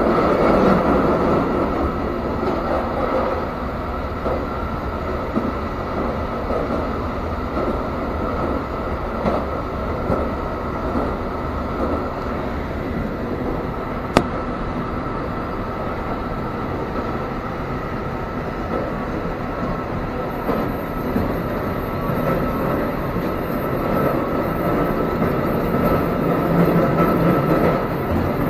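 Passenger train running, heard from inside the carriage: a steady rumble and hiss of the moving car, with one sharp click about halfway through and the noise growing a little louder near the end.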